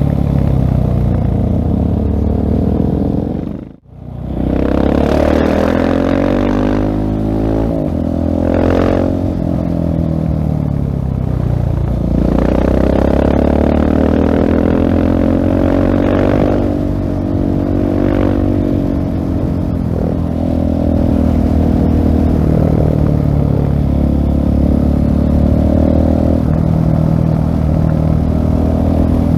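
2016 Husqvarna 701 SM's single-cylinder four-stroke engine through a LeoVince full-system exhaust, under way: it revs up and falls back repeatedly as it pulls through the gears and rolls off the throttle. The sound drops out sharply for a moment about four seconds in.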